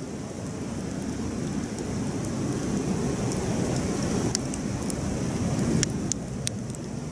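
Wood campfire burning: a steady low roar of flames with sharp crackles and pops, several coming close together in the second half.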